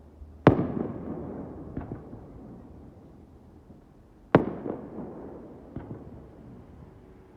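Aerial fireworks shells bursting: two loud bangs about four seconds apart, each trailing off in a long echoing rumble, with a few fainter pops between them.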